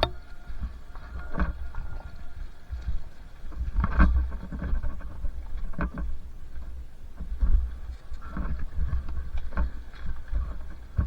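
Two-stroke dirt bike engine running while riding a trail, under a heavy low rumble, with several sharp knocks at irregular intervals.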